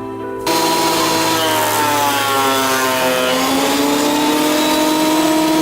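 Planer with fresh blades cutting a board. Its loud machine noise starts abruptly about half a second in, and the motor's pitch sags under load in the middle before partly recovering.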